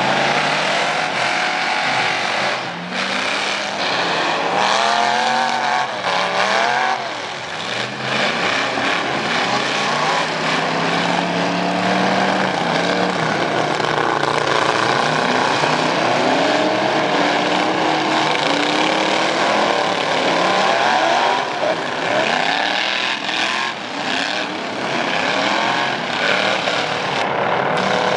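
Racing pickup trucks with loud exhausts, their engines revving up and down over and over as they race, the pitch rising and falling with the throttle.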